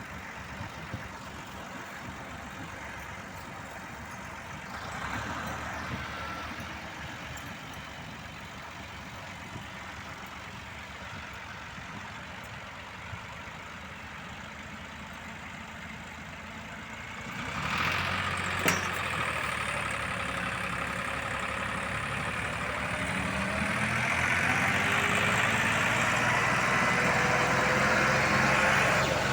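Diesel engines of heavy machinery running steadily; about 18 seconds in the sound gets louder with a single sharp knock, and toward the end an engine revs up, its pitch rising as it works under load.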